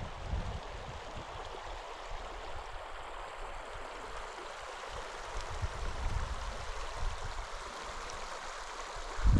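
River water flowing steadily over rocks, a continuous rushing hiss. Under it, an uneven low rumble comes and goes, with a stronger low thump near the end.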